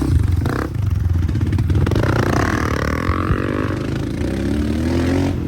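Dirt bike engine running under throttle, its pitch rising steadily through the second half as it revs up.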